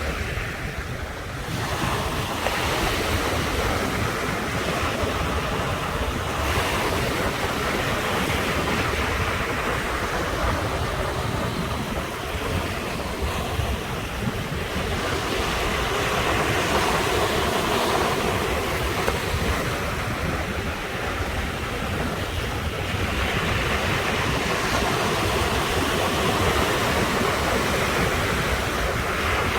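Ocean waves breaking and washing ashore: a continuous rush of surf that swells and eases every few seconds, with wind rumbling on the microphone.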